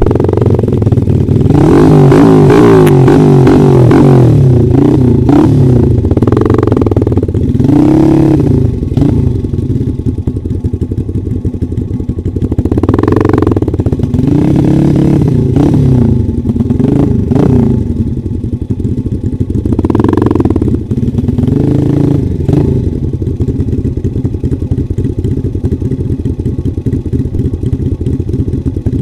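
Dirt bike engine revving in repeated surges, pitch climbing and dropping back several times, then running more steadily for the last few seconds.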